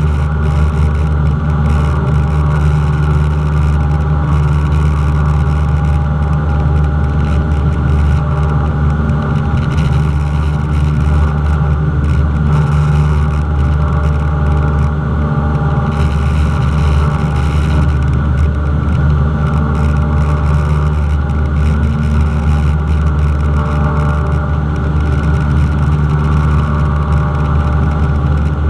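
Cessna 172's piston engine and propeller running at a steady, unchanging drone.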